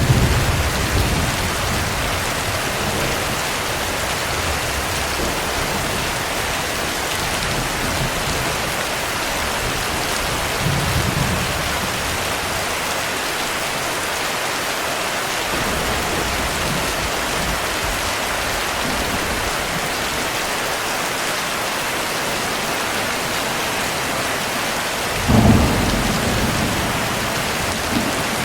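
Steady heavy rain with low rolls of thunder: one near the start, a softer one about eleven seconds in, and a louder, shorter one near the end.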